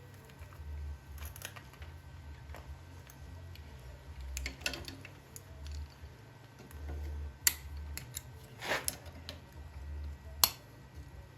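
Scattered light clicks and taps of small workshop handling, with a short scrape past the middle and two sharp clicks, one shortly before and one near the end.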